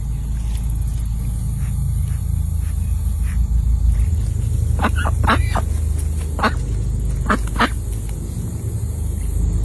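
Ducks quacking, a few short calls starting about halfway in, over a steady low rumble.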